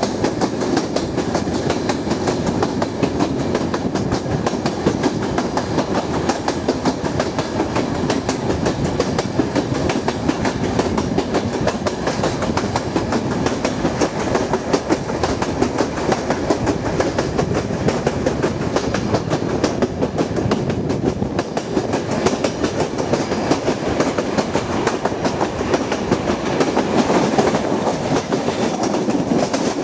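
Turkish State Railways mixed freight-passenger train running steadily along the track, its wheels and carriages clattering and rattling without let-up.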